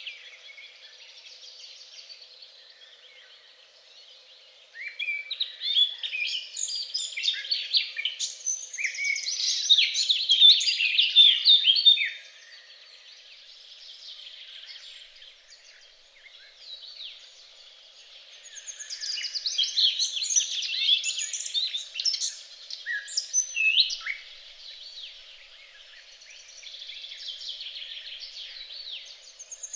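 Songbirds singing, a dense run of quick chirps and trills. The song grows loud about five seconds in, drops back around twelve seconds, and swells again past the middle.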